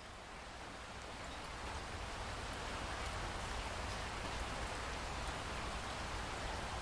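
Steady rainfall hiss with a low rumble beneath, swelling gently over the first couple of seconds and then holding steady.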